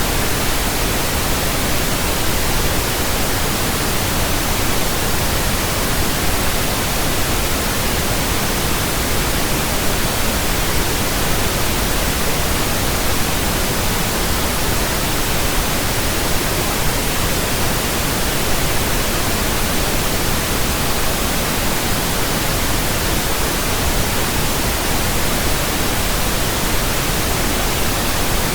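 Steady pink noise from a signal generator: an even, unchanging hiss across the whole range, played as a burn-in track for new speakers, headphones and earphones.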